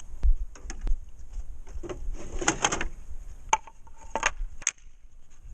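Wooden backing pieces being handled and knocked against each other: scattered knocks, a quick clatter about two and a half seconds in, then three separate knocks.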